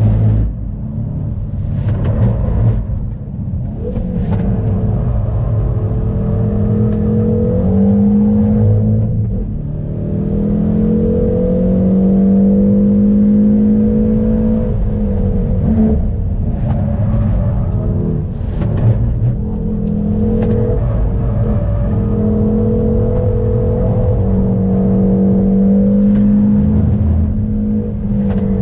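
Hyundai Veloster N's turbocharged 2.0-litre four-cylinder driven hard on a track lap, its pitch repeatedly climbing under throttle and dropping through lifts and gear changes, with several short sharp cracks along the way.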